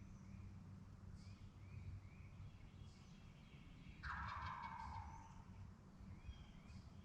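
Wild turkey gobbler gobbling once, about four seconds in: a rattling call of just over a second that falls in pitch. Faint songbird chirps repeat around it.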